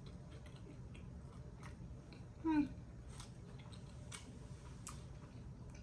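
Close-miked chewing of a chili cheese dog topped with onions: soft wet clicks and crunches about once a second, with a short hummed 'mm' from the eater about two and a half seconds in.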